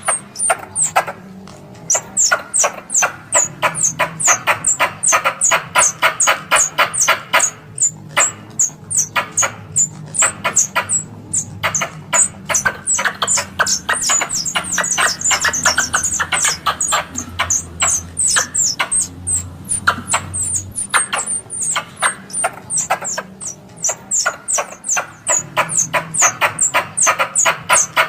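Squirrel lure call used to draw squirrels in for hunting: a rapid, continuous string of sharp, high chirps, each falling quickly in pitch, about four a second, with short pauses between runs.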